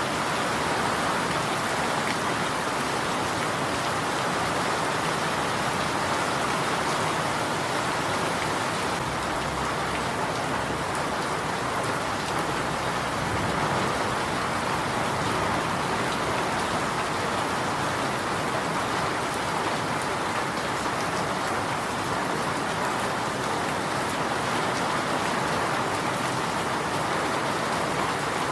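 Steady rain falling and pattering on surfaces, an even, unbroken hiss with faint scattered drop ticks.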